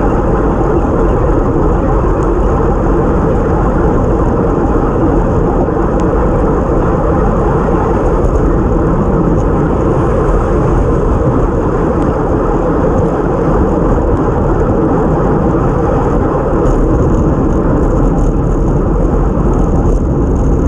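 Steady rush of wind over a bike-mounted action camera's microphone, mixed with road noise from the bike's tyres, as the bike rides along. The rush is loud and unbroken.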